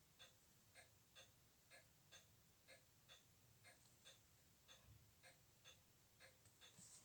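Faint, regular ticking of a Glashütte Spezimatic automatic watch movement running, about two ticks a second.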